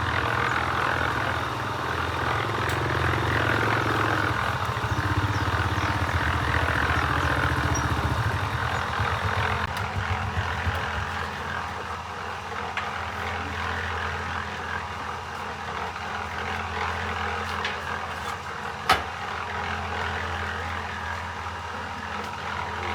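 An engine running steadily at a constant pitch, a little louder for the first several seconds, with one sharp click near the end.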